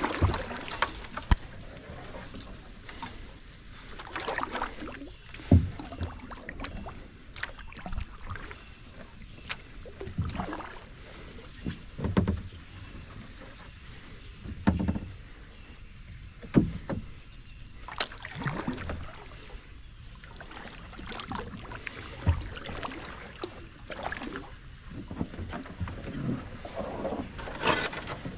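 Kayak paddling through swamp water: irregular paddle strokes with swishes and splashes, and scattered sharp knocks.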